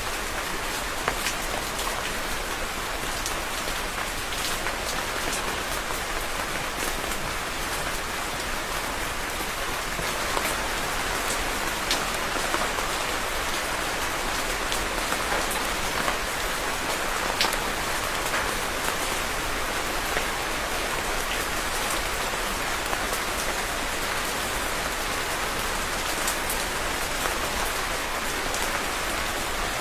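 Steady rain falling on a surface, an even hiss with many separate drop ticks scattered through it.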